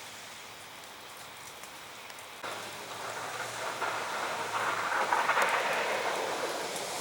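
Sleet and freezing rain pattering steadily on surfaces. About two and a half seconds in it jumps abruptly louder, then swells further.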